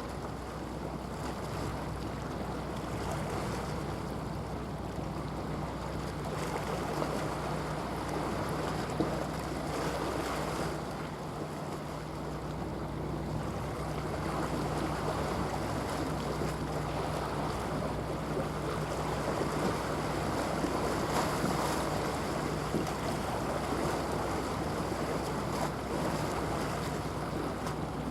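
Wind buffeting the microphone over moving water, with a steady low hum from a passing bulk carrier's engine that fades about two-thirds of the way through.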